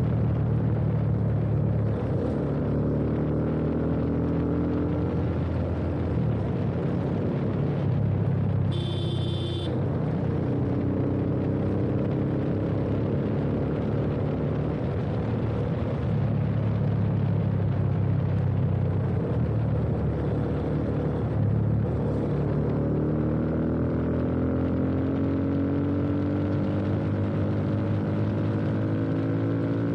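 Yamaha FZ25's single-cylinder engine through an aftermarket slip-on exhaust, heard from the rider's seat while riding: steady running with the revs climbing twice, once early and again over the last several seconds. A brief high-pitched tone sounds about nine seconds in.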